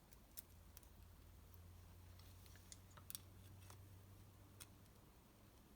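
Near silence broken by a few faint, sharp clicks of small metal engine parts being handled and fitted, over a low steady hum.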